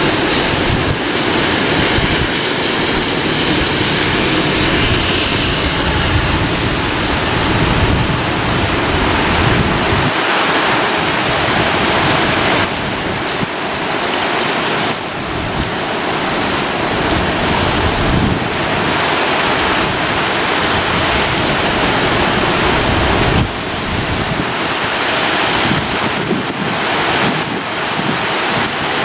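Strong typhoon wind gusting, rushing loudly and buffeting the microphone, swelling and easing in waves with a couple of brief lulls.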